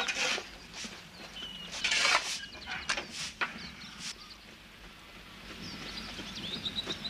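Small birds chirping outdoors, more clearly toward the end, over a few short scuffing noises, the loudest about two seconds in.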